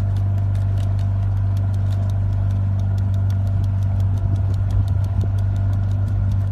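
A motor running steadily with a loud low hum and a fast, even ticking, about six or seven ticks a second.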